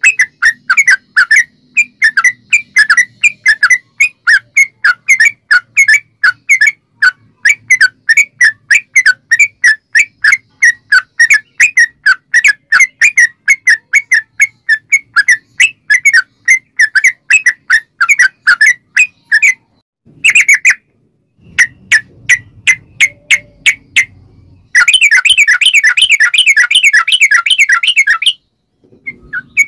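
Yellow-vented bulbul (trucukan) song: long runs of short, loud, bubbly chirping notes repeated about three to four times a second. It stops briefly twice, and near the end there is a faster, denser run of notes.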